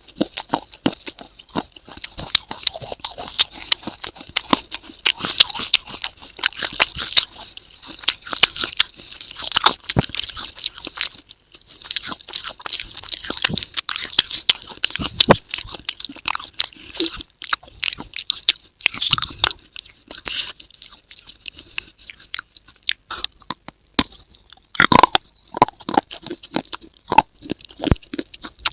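Close, crunchy chewing: a dense run of sharp crackling clicks, with short pauses about eleven seconds in and again near twenty-two seconds.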